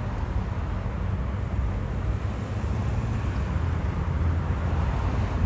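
Airbus A220 jet airliner's engines heard from a distance as a steady, low rumble with a hiss.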